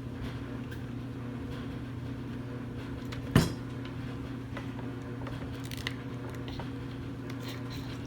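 Clothes dryer running with a steady hum, with one sharp knock about three and a half seconds in and a few small clicks.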